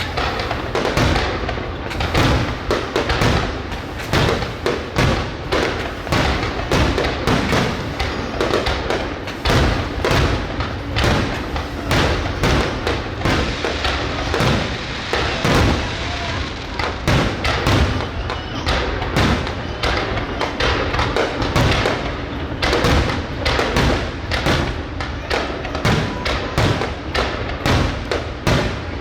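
Fireworks display with shells bursting in a dense, continuous barrage: thuds and bangs several a second, overlapping without a break.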